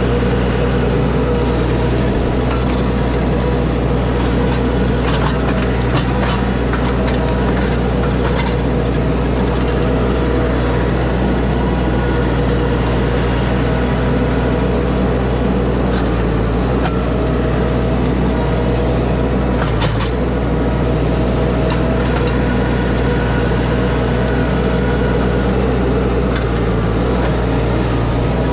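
Excavator's diesel engine running steadily, with scattered sharp cracks and knocks from the debris being handled, clustered about five to nine seconds in and again around twenty seconds.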